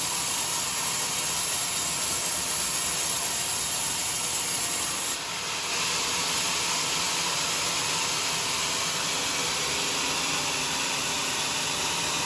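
Sawmill blade running steadily through a joar log, a continuous hissing cut with a brief dip about five seconds in.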